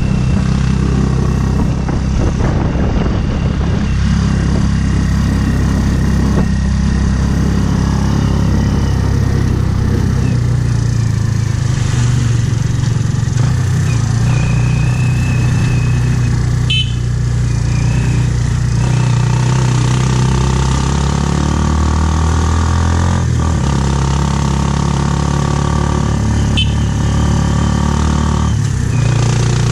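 Motorcycle engine of a Philippine tricycle (motorcycle with sidecar) running while under way, heard from inside the sidecar cab, its pitch rising and falling with the throttle. Two brief sharp sounds come about halfway through and near the end.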